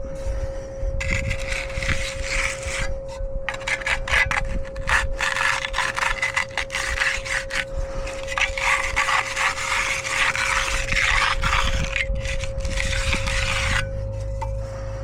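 Hand finishing tool scraping and rubbing across fresh wet concrete in repeated strokes with short pauses, with a steady tone running underneath.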